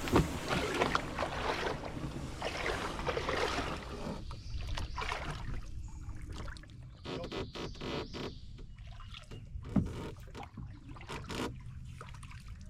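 Water splashing around a canoe, followed from about four seconds in by a series of scattered knocks and clicks on the boat, one of them louder near the end.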